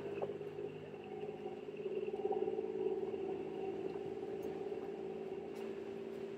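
Toyota 4x4's engine running steadily while driving at low speed, a continuous droning hum that swells slightly a couple of seconds in and then settles.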